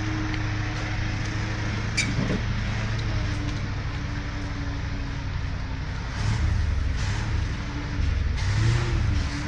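A heavy engine runs steadily, with a sharp knock about two seconds in. Near the end it grows louder in a couple of surges.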